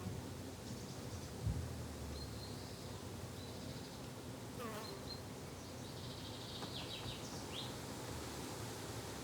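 Bees and flies buzzing steadily in a garden, with a brief low thump about a second and a half in and a few short bird chirps in the second half.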